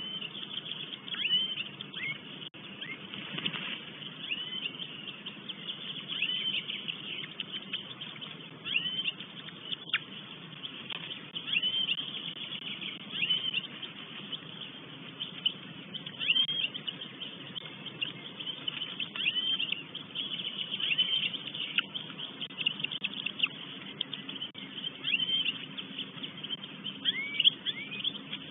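Bird calls in woodland: a short, high chirp that rises and falls, repeated every one to two seconds, over a steady background hiss.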